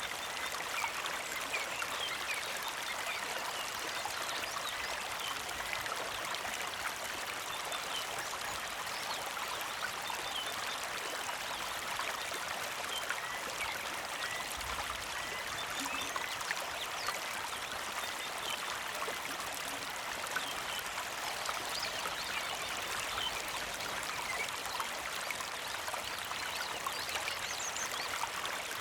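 Small mountain creek flowing steadily with a gentle trickle and splash. Faint, scattered bird chirps sound over the water.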